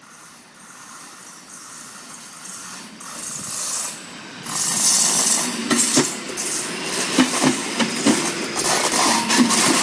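A train passing close by on the rails: a rushing hiss builds up, and from about four and a half seconds in it turns into a loud clatter of wheels with many sharp knocks.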